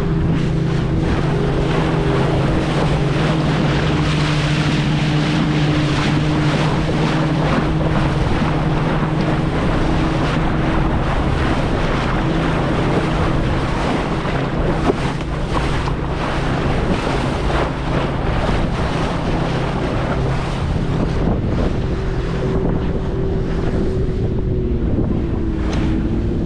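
Motorboat engine running steadily under way, a constant drone, with wind rushing over the microphone and water splashing around the hull. The engine's pitch shifts a little near the end.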